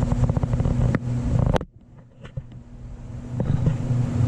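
Engine running with a steady low, pulsing drone. A sharp click comes about one and a half seconds in; the drone then drops away abruptly and gradually builds back up.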